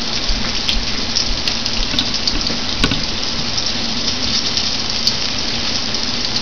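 Flour-dredged swai fillets frying in oil in a cast-iron skillet: a steady sizzle with scattered small crackles and pops.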